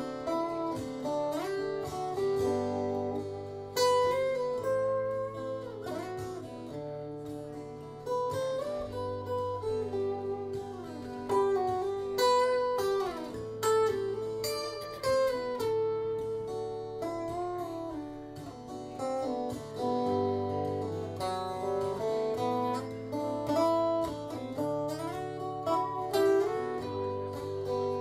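Acoustic guitar playing an instrumental break, a picked melody over held low bass notes, with no singing.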